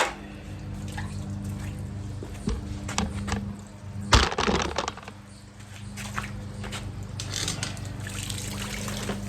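Water running and splashing over a steady low hum, with sharp knocks right at the start and about four seconds in.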